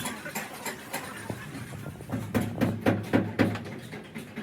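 A series of sharp knocks and taps, with a quick run of about five heavier knocks near the middle.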